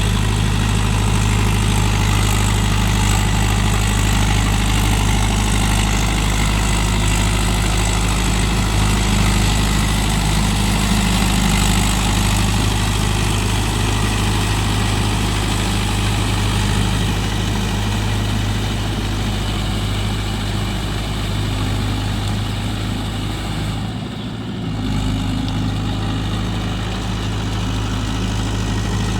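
Mahindra Yuvo Tech+ 585 DI 4WD tractor's diesel engine running steadily, with one short dip in level near the end.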